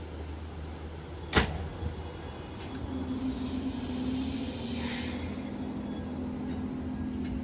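An electric Hakone Tozan Railway train at the station: a sharp clack about a second in, then a steady electric hum with a burst of air hiss.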